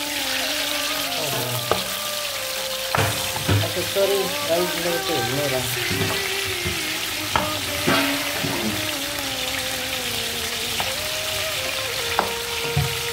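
Raw chicken pieces sizzling in hot oil in a metal karahi, stirred with a wooden spoon that knocks and scrapes against the pan several times.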